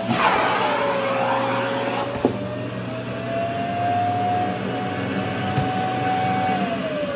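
Vacuum cleaner running while sucking at a skirt's fabric, its motor whine wavering in pitch, with a brief rush of air at the start and a click about two seconds in. Near the end the whine starts falling steadily as the motor winds down.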